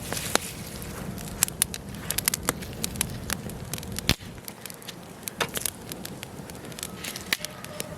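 Wood fire burning in a fireplace: burning logs crackling with irregular sharp pops over a steady low rumble of the flames, and one louder pop about halfway through, after which the low rumble eases.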